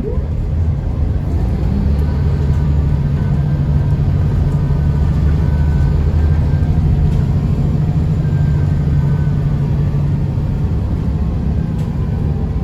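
Scania L94UB bus's DSC9 nine-litre six-cylinder diesel engine running under load, a loud steady low drone. It climbs slightly in pitch over the first few seconds, holds, then eases off near the end, with a faint whine above it.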